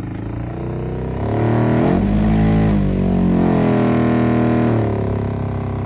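Interior blower fan motor of a 2001 Mitsubishi Pajero Sport running with a loud, droning hum whose pitch rises about a second in and falls back near the end. The noise comes from the fan having sucked in leaves and a piece of cloth, which unbalanced it.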